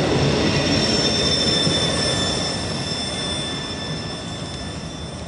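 A train rolling past, its wheels rumbling on the rails with a steady high squeal of wheels against rail, fading as it moves away.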